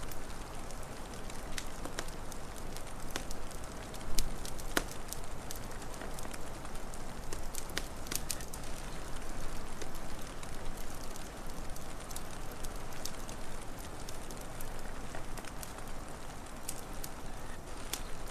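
Wood fire crackling, with irregular sharp pops over a steady low rush of noise, and a louder dull pop about four seconds in.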